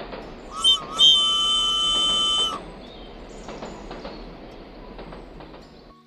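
A high, whistle-like horn tone: a short wavering toot, then one held note of about a second and a half, over a steady background hiss.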